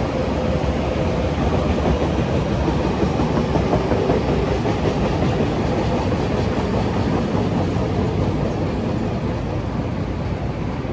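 A train running past, a steady loud rush of wheel and running noise on the rails that eases slightly near the end.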